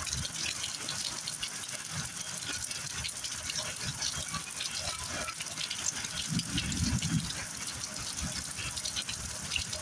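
Heavy rain pouring steadily, with a low rumble swelling briefly about six to seven seconds in.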